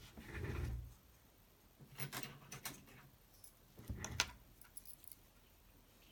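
Handling noises: a soft bump, then two bursts of small clicks and rattles, as of small hard parts being picked up and moved.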